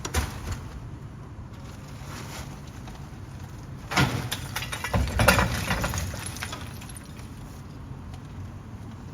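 Heavy truck engine running with a steady low hum, and a loud, noisy clatter about four seconds in that lasts about two seconds.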